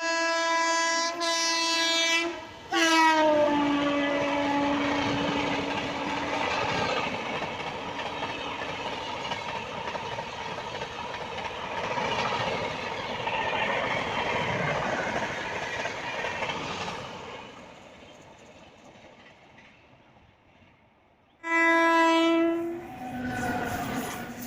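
Indian Railways train passing through a station at speed without stopping: its horn blows and drops in pitch as the locomotive goes by, followed by the rumble and clatter of the coaches on the rails, which fades away. About 21 seconds in, a train horn sounds loudly again.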